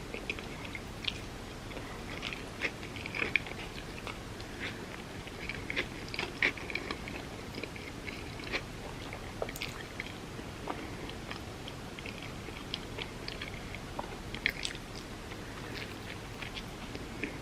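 A person eating close to the microphone: steady chewing with irregular crisp crunches and small wet mouth clicks, as of loaded avocado toast on sourdough.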